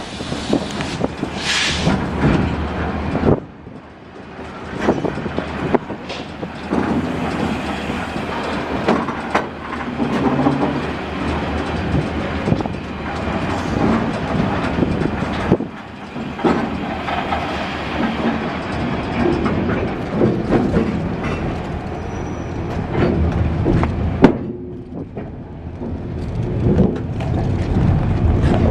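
Iron-ore freight train running, heard from aboard one of its freight cars: a continuous rumble and rattle, full of irregular knocks and clatter from the wheels and wagons.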